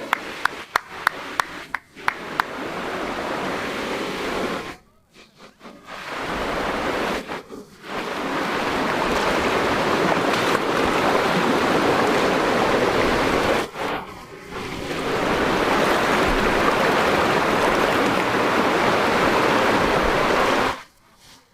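Mountain river water rushing steadily, broken off by a few short gaps. A quick string of sharp clicks in the first couple of seconds.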